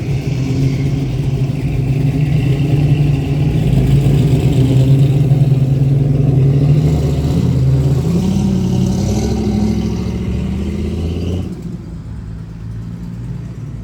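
Truck engine running, its pitch rising a little around eight seconds in, then the sound drops away suddenly and turns quieter about eleven and a half seconds in.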